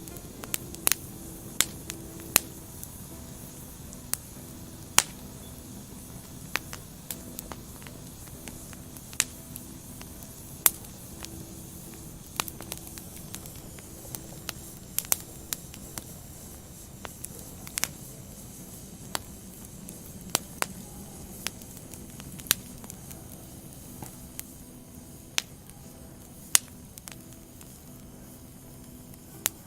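Wood fire burning: sharp, irregular crackles and pops of the logs, roughly one a second, over a steady low hiss.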